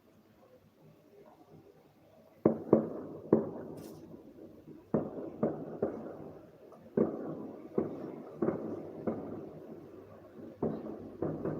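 Fireworks shells bursting in an irregular series of muffled bangs, each trailing off in a rumbling tail, starting about two and a half seconds in.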